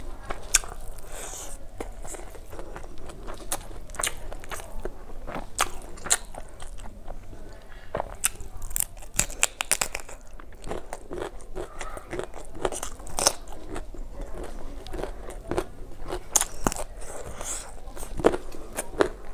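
A person chewing mouthfuls of rice and fish curry eaten by hand, with many sharp, irregular wet mouth clicks and crunches.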